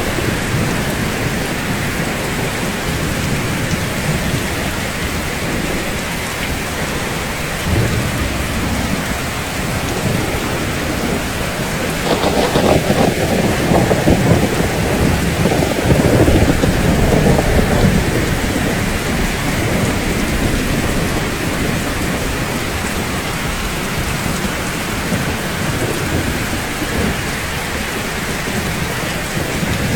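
Steady heavy rainfall with rolling thunder: a low rumble about eight seconds in, and a louder, longer roll of thunder from about twelve to eighteen seconds in that then fades back into the rain.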